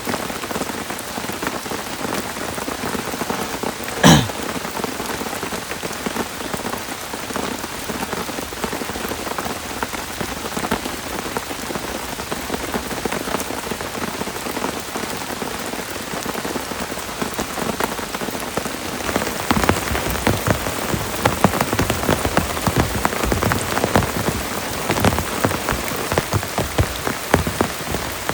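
Heavy rain pattering steadily on a surface, with one sharp knock about four seconds in. The drops hit heavier and denser from about two-thirds of the way through.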